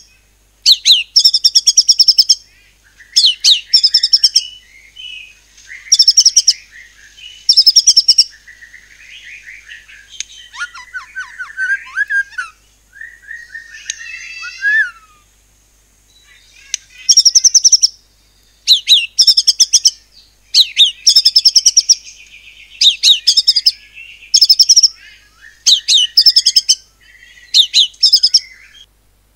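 White-rumped shama (murai batu) singing in its rapid-fire 'nembak' style: repeated loud, short volleys of fast, clipped high notes. Around the middle are softer, varied warbled phrases. This is the kind of song that is played to provoke other shamas into singing.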